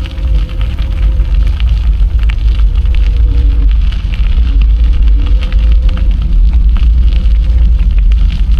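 Wind buffeting the microphone of a camera riding along on a moving bicycle, a loud steady low rumble with scattered crackling ticks from the ride.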